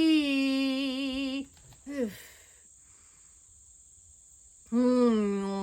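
A woman chanting on long held notes: one sustained sung note ends about a second and a half in, followed by a short falling vocal sound. After a pause of about two seconds, another long held note begins near the end. A faint steady high hiss runs underneath.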